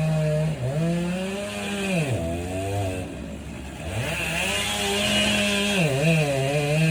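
Chainsaw bucking a large oak log into smaller pieces. It runs at high revs with its pitch sagging and recovering as the chain bites. About two seconds in it drops to a low idle, then revs back up about four seconds in and cuts again.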